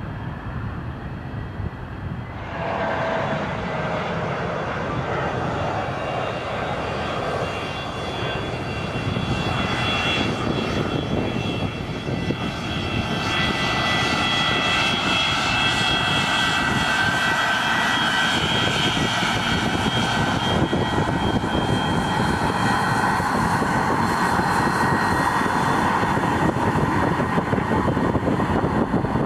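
Jet airliner engines running, a broad rushing noise with several high whining tones that swells up sharply about two seconds in and grows louder through the rest.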